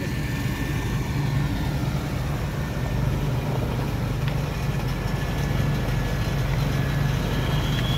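A motor vehicle's engine running steadily close by, a low rumble that grows slightly louder.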